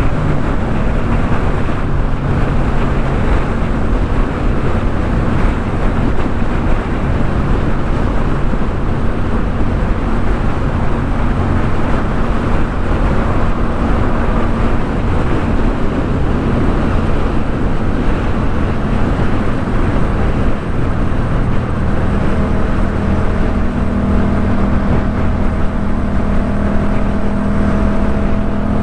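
Yamaha MT-07 parallel-twin engine through a Jeskap K4 full exhaust, running at steady cruising revs under heavy wind rush while riding. Toward the end the engine note steps up a little and grows louder.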